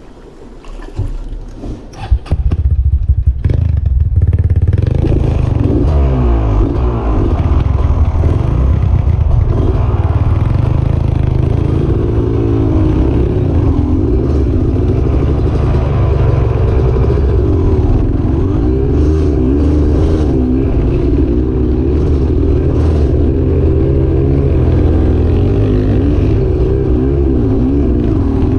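Dirt bike engine running hard with revs constantly rising and falling as it rides over rocks, after a few clattering knocks about two seconds in.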